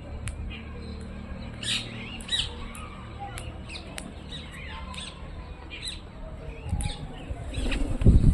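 Birds chirping and squawking in many short, high calls, with a flurry of low fluttering, likely wingbeats, that grows louder over the last second or so.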